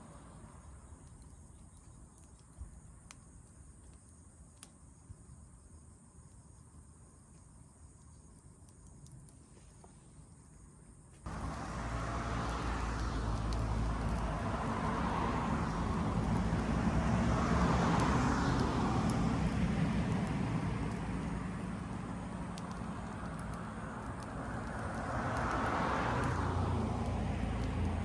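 Wood fire crackling faintly with a few sharp pops. About eleven seconds in, a much louder rushing noise with a low rumble cuts in abruptly and swells twice, drowning the fire.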